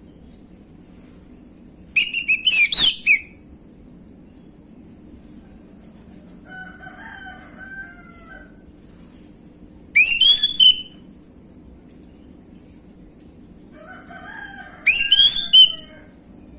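Orange-headed thrush singing a lure song of the 'gamblingan' type, three loud, short bursts of quick, varied notes a few seconds apart. Between them, a fainter, lower call with a falling pitch, like a rooster crowing, is heard twice over a steady low hum.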